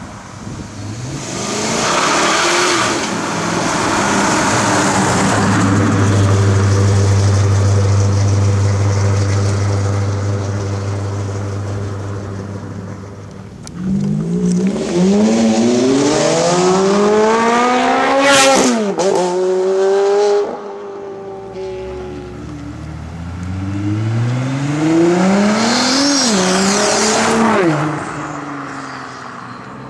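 Supercar engines accelerating hard. A car passes, then an engine holds a steady low drone. A red Ferrari launches with its engine revving up through two quick upshifts to a high-pitched peak that cuts off, then a Nissan GT-R accelerates away, rising in pitch through its gears.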